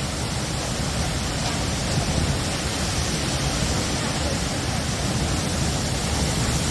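Heavy rain and strong wind of a severe thunderstorm: a steady rushing noise with a low rumble underneath.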